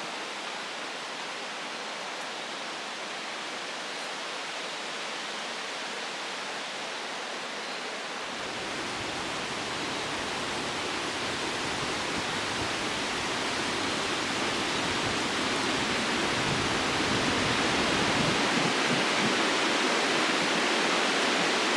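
Wind blowing through the tree canopy, a steady rush of leaves that swells about eight seconds in and grows louder toward the end, with some low rumble of wind on the microphone.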